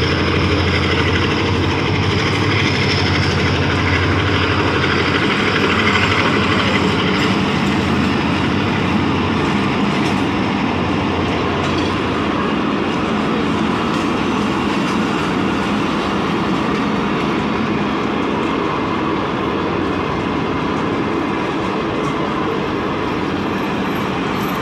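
Passenger train coaches rolling past on a flooded track: a steady rumble of wheels on rails with faint clacks. A low hum is strong at first and fades out over the first several seconds.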